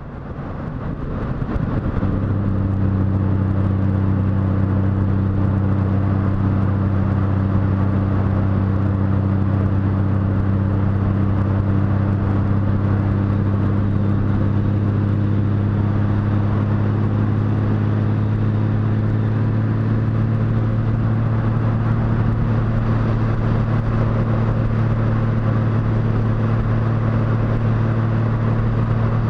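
Motorcycle engine running at a steady cruising speed, under a continuous rush of wind and road noise. The sound fades in over the first couple of seconds.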